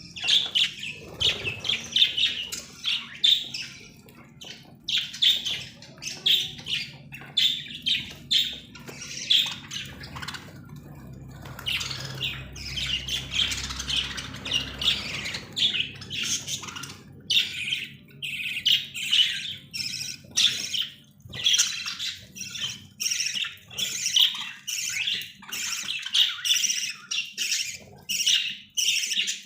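Many caged parrots squawking and chirping at once, a dense, continuous chatter of short high-pitched calls.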